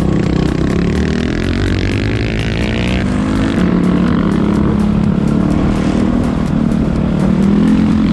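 Enduro motorcycle engine running while being ridden, its pitch shifting up and down with the throttle.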